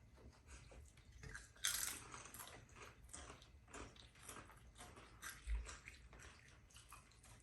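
Potato chips being crunched and chewed: faint, irregular crisp crackles, with one louder crunch about two seconds in and a soft low thump about five and a half seconds in.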